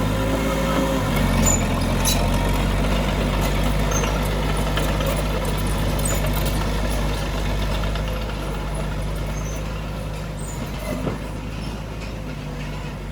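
Heavy diesel earthmoving machine running steadily, with scattered metallic clicks and rattles; it grows gradually quieter over the last few seconds.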